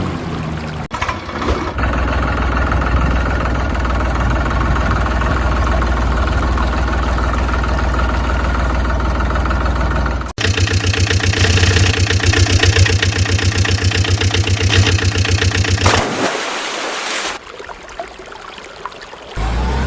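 Vehicle engine running in several spliced sections: a steady drone, then after a sudden cut about ten seconds in, a faster evenly pulsing run. It breaks off near the end, drops quieter for a couple of seconds, and the drone returns.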